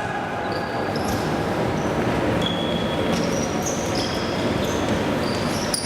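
Futsal game play: sports shoes squeaking in short high chirps on the court floor and the ball being played, over a steady hum of hall noise.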